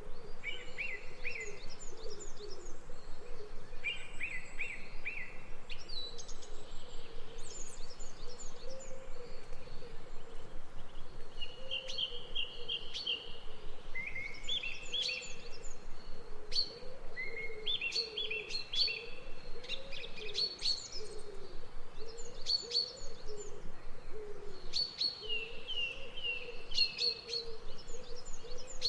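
A chorus of several birds singing, with rapid high chirps and short trills coming and going throughout, over a continuous low warbling or cooing call.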